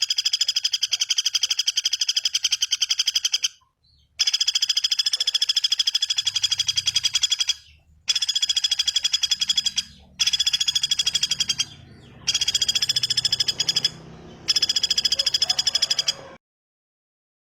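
A songbird's rapid, buzzy rattling trill, repeated in several bouts of two to four seconds with short breaks between them.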